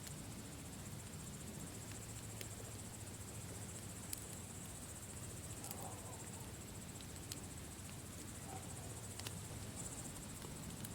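Campfire burning with a low steady rumble and a handful of sharp crackling pops, about five over ten seconds. Over it, a steady high-pitched cricket trill.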